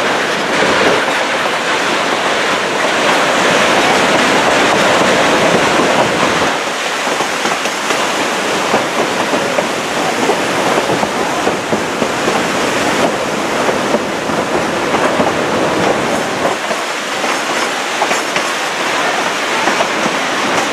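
Narrow-gauge passenger train cars rolling along the track, heard from an open car: a steady rolling noise with the wheels clicking over the rail joints, a little louder for the first six seconds or so.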